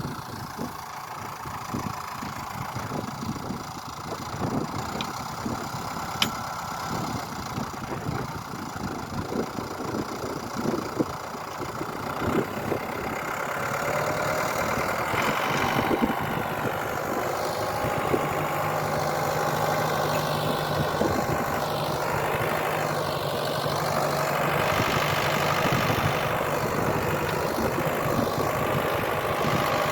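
An engine running steadily, getting louder about halfway through, with a steady low hum joining in later.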